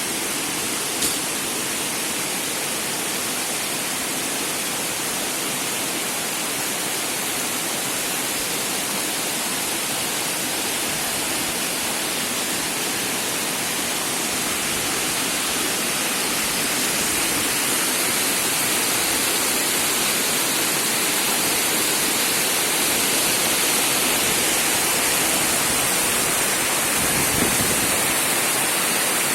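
Shumka waterfall rushing: a steady, loud roar of falling water. A faint click about a second in.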